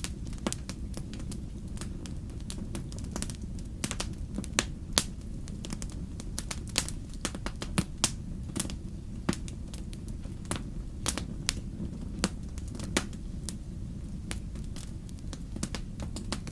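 Wood fire crackling in a fireplace: irregular sharp pops and snaps, several a second and some louder than others, over a steady low rumble of the flames.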